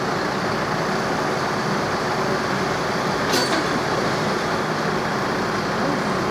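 A vehicle engine running steadily with a low rumble, and a brief sharp hiss about three seconds in.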